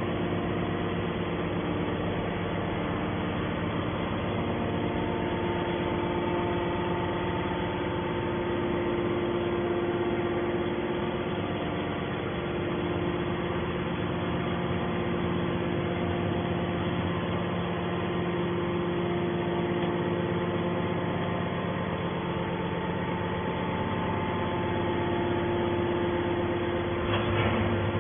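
Hydraulic scrap metal baler running, its motor and hydraulic pump giving a steady hum with several held tones.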